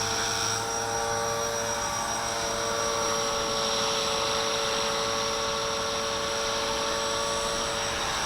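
Walkera V450D01 electric RC helicopter hovering: a steady whine from its brushless motor and gears with the hum of the spinning rotor blades, holding an even pitch.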